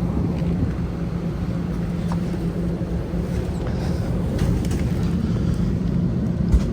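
Steady low rumble and constant hum of an airliner cabin parked at the gate during boarding, with one short knock near the end.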